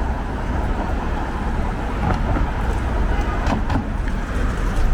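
City street traffic: a steady low rumble of cars and other vehicles, with a few light clicks in the middle.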